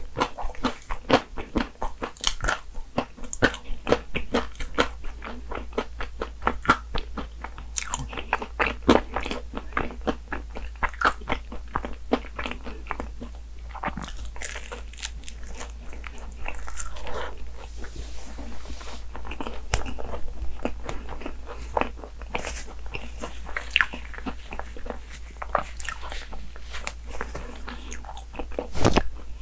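Close-miked eating of a chocolate egg tart: bites and chewing with many small crunches of the tart, going on steadily, softer and mushier for a few seconds in the middle.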